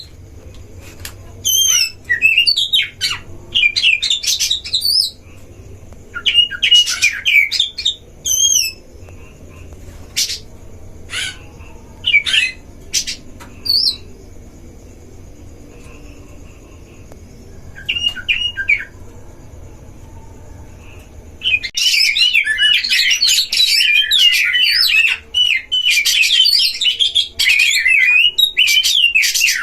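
Oriental magpie-robins singing: separate loud whistled and warbling phrases with pauses between them, over a low steady hum. About two-thirds of the way in, the hum stops and the song becomes a dense, unbroken stretch of overlapping phrases.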